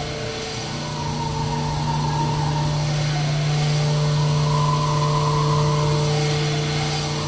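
Machine-shop machinery running steadily: a constant low hum with a higher whine that slowly rises and falls.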